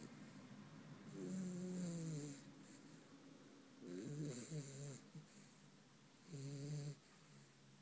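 A sleeping puppy snoring: three drawn-out snores with a whining pitch, a couple of seconds apart. The first is the longest and falls in pitch at its end.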